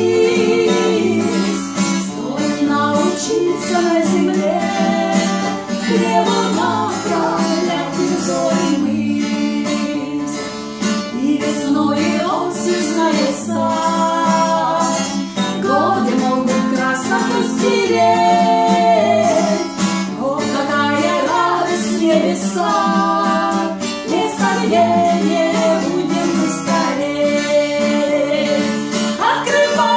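A woman singing a Russian Christian song to acoustic guitar accompaniment.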